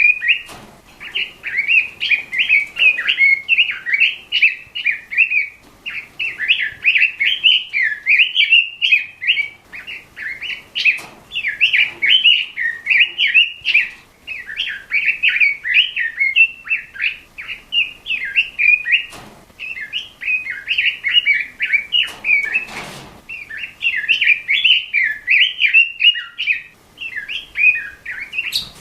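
Red-billed leiothrix (Pekin robin) singing continuously: a fast, loud warbling song of quick, rising and falling notes, in long phrases with only brief pauses.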